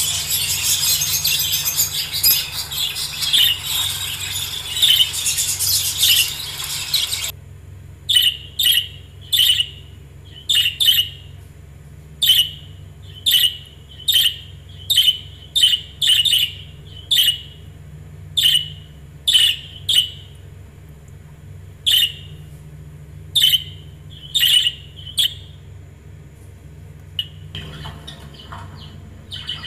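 Budgerigars chattering densely for about seven seconds, then abruptly giving way to short, sharp single chirps about once a second, with softer twittering returning near the end.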